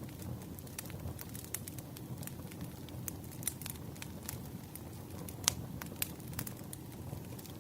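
Burning firewood crackling, with irregular sharp pops over a low steady rush. The loudest pop comes about five and a half seconds in.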